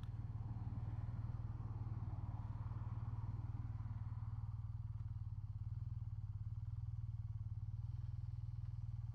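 BMW R12 NineT's air/oil-cooled boxer-twin engine running steadily at low revs, a deep even pulsing rumble.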